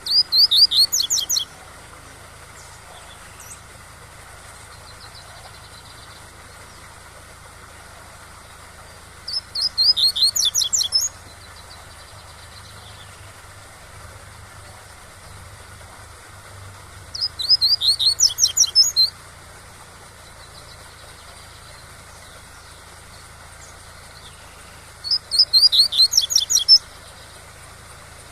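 Double-collared seedeater (coleiro) singing the tui-tui song: four short phrases of rapid repeated high notes, about eight seconds apart. A steady rush of waterfall sound runs under the song.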